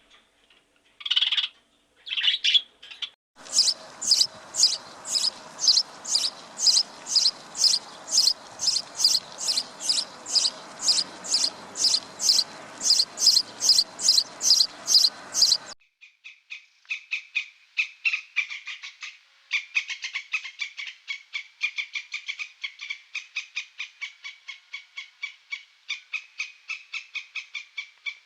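High chirping bird calls. A few short calls come first, then a long run of evenly spaced chirps, about two and a half a second, over a background hiss. After a sudden cut comes a faster, lower run of chirps, about four a second.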